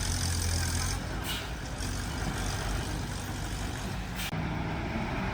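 Diesel engine of heavy earthmoving machinery running, its sound changing abruptly about a second in and again just after four seconds.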